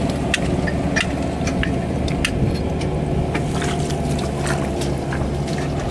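Tractor engine running steadily, with scattered light metallic clicks and taps over it.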